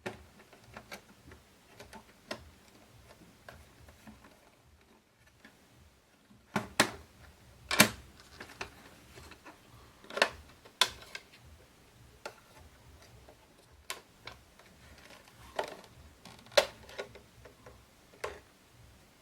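Handling noise from objects being picked up and set down: irregular clicks, taps and knocks, with several sharper, louder clicks from the middle on.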